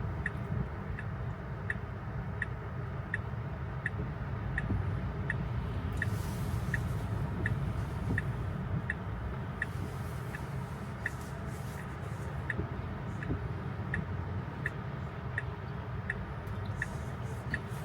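Tesla turn-signal indicator ticking steadily inside the cabin, about one and a half ticks a second, over a low rumble of tyres on wet road. Two brief hissing swishes come near six and ten seconds in.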